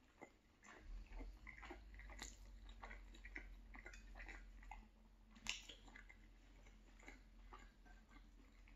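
Faint close-up chewing of a mouthful of sausage rigatoni, with many small wet clicks and smacks, and one sharper click about five and a half seconds in.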